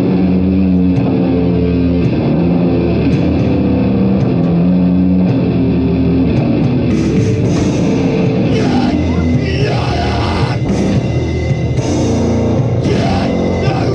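Live heavy metal band playing a loud, distorted electric guitar riff of held low chords, with drums and cymbal crashes coming in about halfway through.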